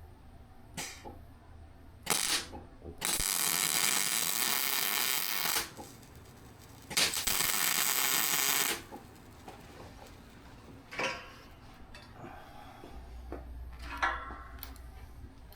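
Welding arc hissing and crackling in two bursts, one of about two and a half seconds and a shorter one of under two seconds: a quick plug weld filling onto a broken bolt stub so the bolt can be turned out. A few short clicks and knocks come between and after the bursts.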